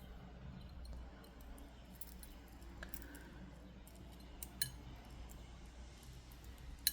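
A few faint, sharp clicks of small jewelry tools working bracelet wire against a low, steady room tone, the sharpest click near the end.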